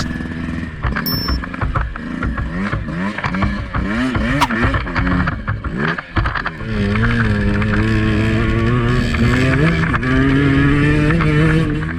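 Two-stroke dirt bike engine revving up and down in short surges, with scattered knocks, then held at a steadier, higher speed for the second half.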